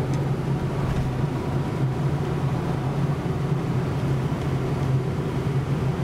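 Engine and road noise of a moving vehicle heard from inside its cab: a steady, low drone.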